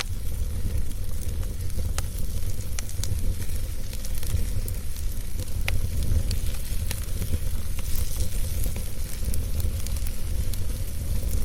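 Wood fire burning in a fireplace: a steady low roar with scattered crackles and sharp pops.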